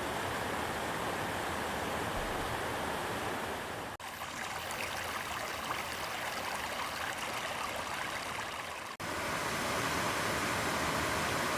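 Steady rushing noise, broken off by two sharp cuts about four and nine seconds in.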